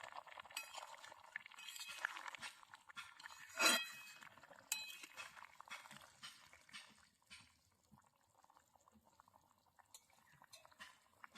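Curry simmering and bubbling in a cooking pot, with a metal utensil striking the pot once sharply with a ringing clink about four seconds in, and again more lightly a second later. The bubbling dies down over the last few seconds.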